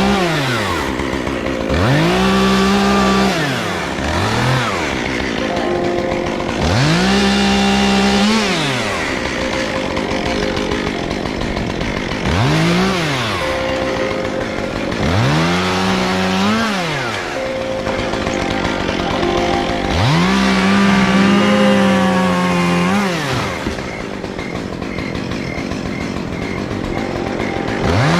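Two-stroke chainsaw cutting wood, opened up to full throttle about seven times in bursts of one to three seconds and dropping back to idle between them.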